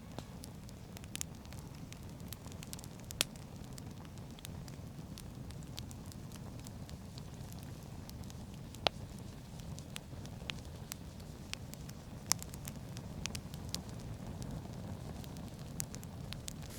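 Campfire of sawn firewood crackling: irregular sharp pops and snaps over a low steady rush, with a few louder pops.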